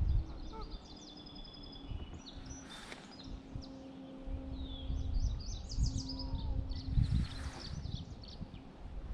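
Several birds singing and chirping, with short trills and whistles. Under them runs gusty low rumble on the microphone and a faint low steady hum. Two brief rushing swishes come about three and seven and a half seconds in.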